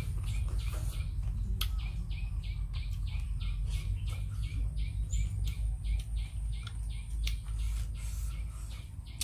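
A bird chirping over and over in the background, about four short chirps a second, over a steady low rumble. A few sharp clicks come from eating.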